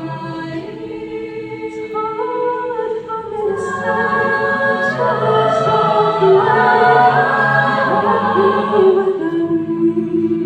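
A cappella vocal group singing held, wordless chords in close harmony, with no instruments; the ensemble swells louder through the middle and eases back near the end.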